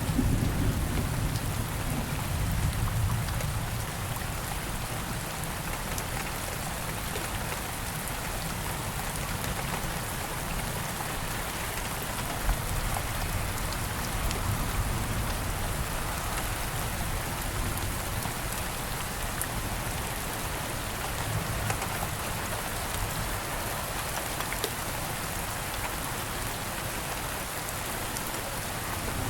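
Steady rain falling in an even hiss, with a low rumble of thunder dying away over the first few seconds.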